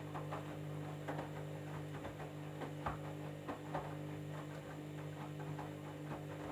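Candy washing machine running a jeans cycle: a steady motor hum with irregular soft knocks and clicks as the drum turns the load.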